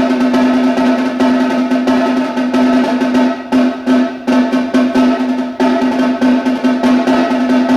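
Snare drum played solo in fast, dense rolls. About three and a half seconds in the rolls break into a short passage of separate accented strokes, then the rolls resume.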